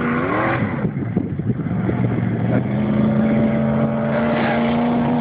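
Off-road race truck's engine revving up, then held at a steady high pitch for a few seconds.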